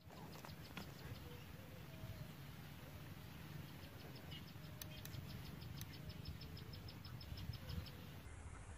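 Faint open-air ambience: birds calling faintly with short wavering notes, and an insect's rapid, even ticking of about six a second through the middle and latter part, over a low steady rumble.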